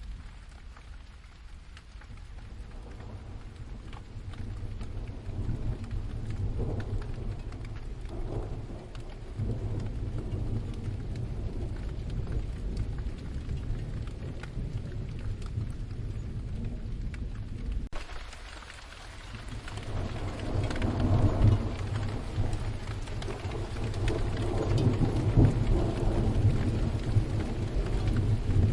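Steady rain falling, with deep rolling thunder rumbling underneath. The rumble swells over the first few seconds, drops away abruptly about two-thirds of the way through, then builds again louder toward the end.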